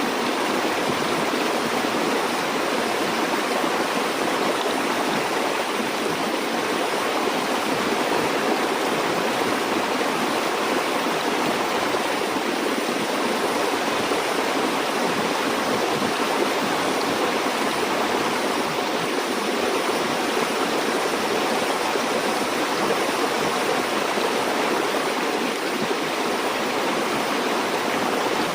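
River or stream water flowing steadily over rocks, a constant rushing and gurgling that does not change in level.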